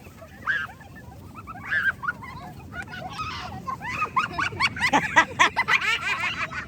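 Children shouting and squealing in high-pitched voices during a game. The short cries are scattered at first and pile up into overlapping shrieks from about four seconds in.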